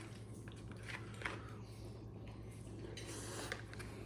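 Faint eating sounds: a few light clicks of a utensil against a bowl around a second in, over a steady low hum.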